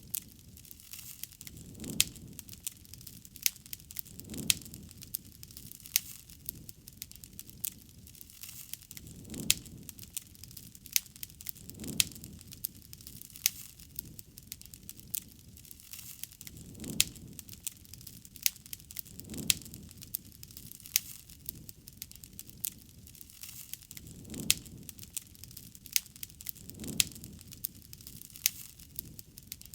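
Wood campfire crackling, with frequent sharp pops and snaps over a soft low rumble of flame that swells every couple of seconds.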